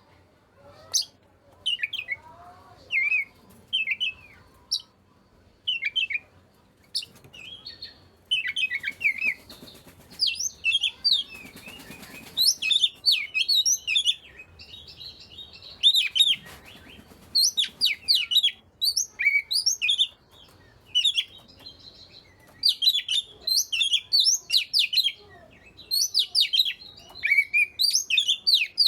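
Oriental magpie-robin (kacer) singing: scattered short whistles and chirps at first, then about eight seconds in a fast, varied run of whistled phrases that keeps going. This is the full, lively song that keepers call gacor.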